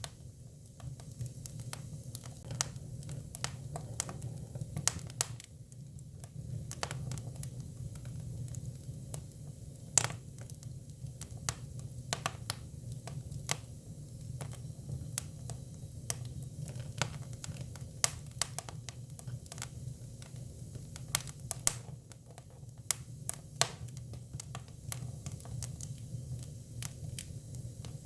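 Hinoki cypress firewood burning, crackling with irregular sharp pops, a few of them louder, over a low steady rumble.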